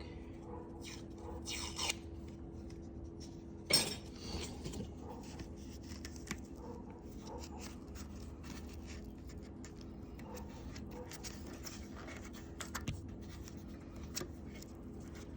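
Small clicks, taps and scrapes of parts and tape being handled during hand work on a go-kart engine's fuel and carburetor fittings, with one sharp click about four seconds in, over a faint steady hum.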